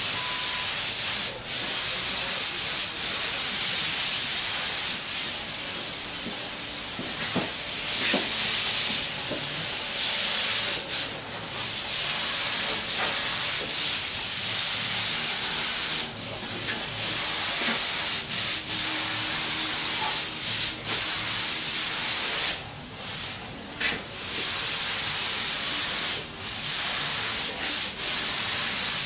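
Air-powered paint spray gun hissing in long, steady bursts, with several short breaks.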